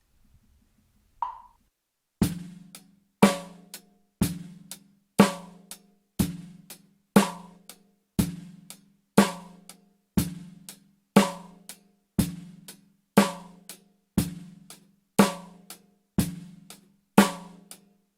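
A metronome clicks at 30 BPM, once every two seconds, and about two seconds in a drum kit joins with a steady beat, about one main stroke a second with lighter hi-hat strokes between. The drummer hears the sparse clicks as beats two and four of the bar, a half-time metronome exercise for steady tempo.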